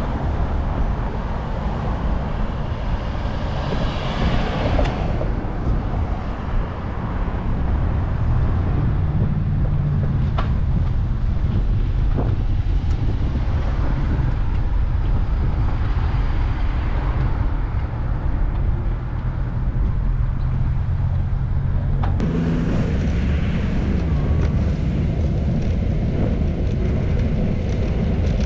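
Road traffic and wind noise heard from a moving bicycle: a steady low rumble of wind on the microphone, with cars passing on the street, one swelling past about four seconds in and another near the end.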